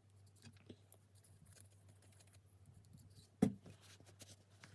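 Faint clicks and scratches of small parts being handled, with one sharp knock about three and a half seconds in, over a faint steady low hum.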